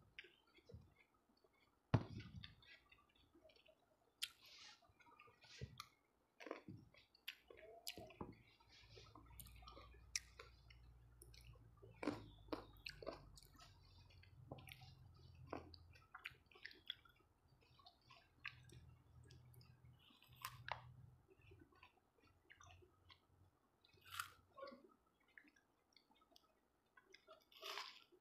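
Quiet sounds of a person eating fresh fruit, chewing grapes and biting into juicy watermelon, with many short, irregular wet clicks.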